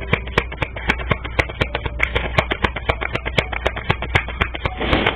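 Tarot cards being shuffled by hand: rapid, irregular clicks, several a second, over a low steady hum.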